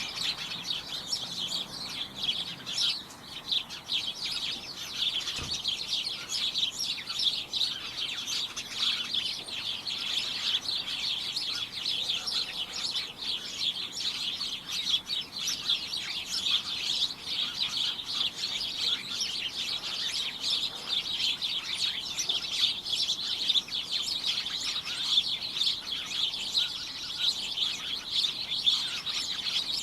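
A group of small birds chirping continuously, many short overlapping high chirps in a busy chorus.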